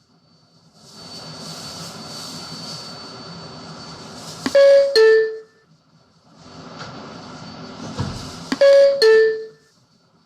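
New York City subway car's two-note door chime, a higher note falling to a lower one, sounding twice about four seconds apart over the steady noise of the train: the signal that the doors are closing.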